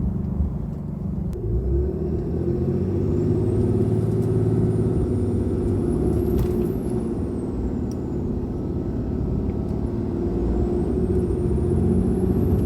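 A 6.7 L Cummins turbo-diesel in a 2022 Ram 2500 pulling under load, breathing through an open S&B cold air intake. Over the engine rumble the turbocharger whistle rises to a high pitch and falls away twice.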